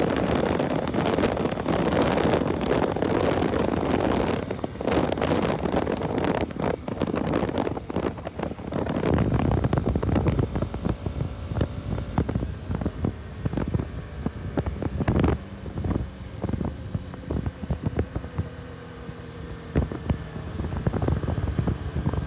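Wind buffeting the microphone while riding a Bajaj Pulsar RS200, with the motorcycle's single-cylinder engine running underneath. The wind noise eases about eight seconds in, leaving the engine's steady tones and scattered knocks of gusts more to the fore.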